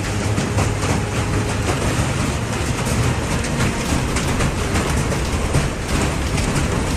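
Hailstones pelting down hard and fast, a dense, continuous clatter of ice hitting hard surfaces.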